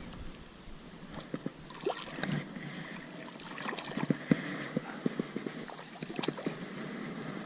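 Water trickling and gurgling around a kayak, with scattered light knocks and clicks.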